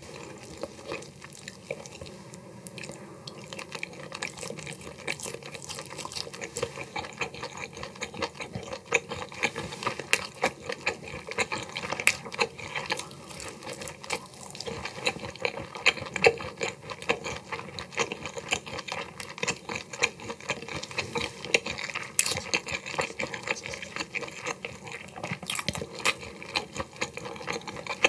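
Close-miked wet chewing and mouth smacking while eating cooked mantis shrimp and ghost shrimp, with many small irregular clicks and crackles.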